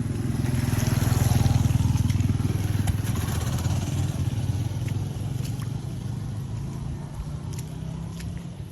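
A motor vehicle passes close by on the road, its engine loudest about a second and a half in, then fading slowly as it moves away.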